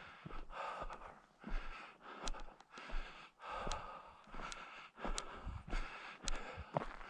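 Footsteps crunching through crusted snow at a walking pace, with sharp crunches and clicks between the steps.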